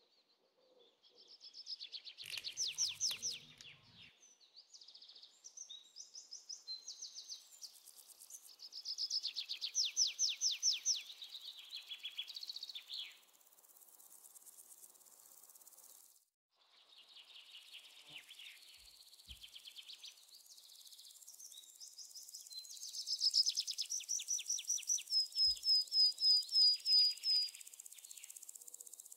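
Birds singing in fast trills and repeated chirps, with a short run of sharp, evenly repeated chirps near the end; the sound breaks off briefly a little past halfway.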